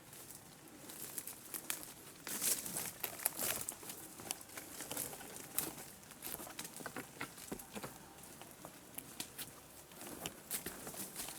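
Irregular rustling and crackling of leaves and twigs, with many sharp little snaps scattered unevenly, loudest about two to four seconds in.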